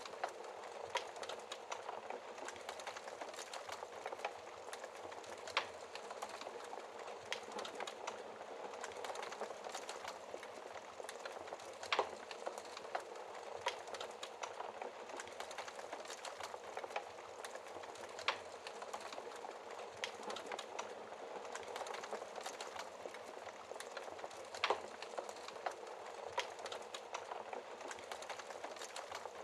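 Wood fire crackling in a fireplace: a steady soft hiss with scattered small crackles and a louder sharp pop every few seconds.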